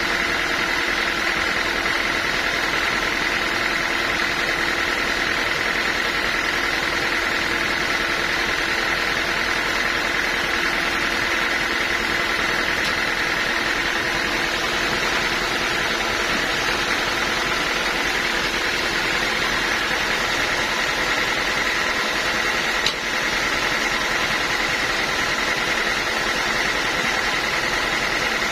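Sawmill machinery running steadily with an even mechanical hum and a high whine, with one sharp click about three quarters of the way through.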